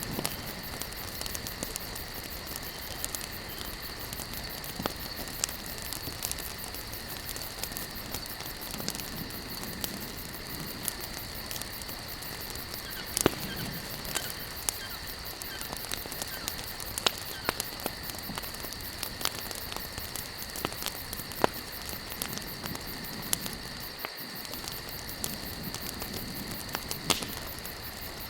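Wood campfire crackling, with frequent irregular sharp pops and snaps over a steady hiss. A faint steady high-pitched whine runs underneath.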